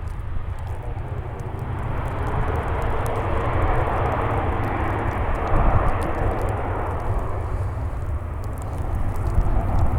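Jet aircraft's engines roaring as it rolls out just after touchdown, swelling over the first few seconds and then easing. A steady low wind rumble on the microphone runs underneath.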